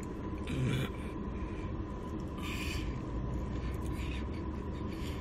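Person eating: a few short, soft mouth and breath sounds, including one about half a second in and one around two and a half seconds in, over a steady low background hum.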